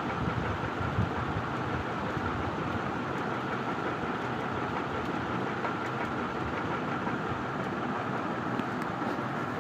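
Puja Hi Breeze ceiling fan running with a steady whirring rumble and a faint hum. The fan is very noisy and wobbles on its mount after a repair.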